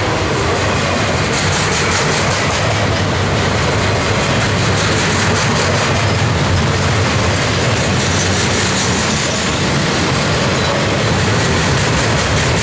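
Freight cars of a loaded rail train rolling past close by: a loud, steady noise of steel wheels running on the track.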